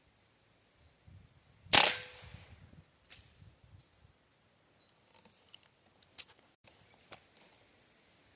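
A single shot from a PCP air rifle about two seconds in: a sharp crack with a short fading tail. A few faint clicks follow later.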